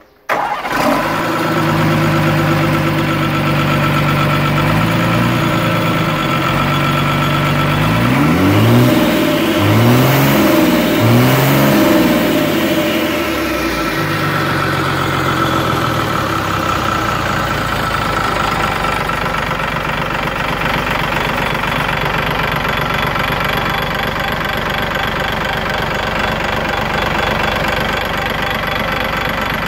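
Mercedes-Benz OM366LA inline-six turbo diesel engine idling, then revved about four times in quick succession around eight seconds in. It drops back to a steady idle for the rest of the time.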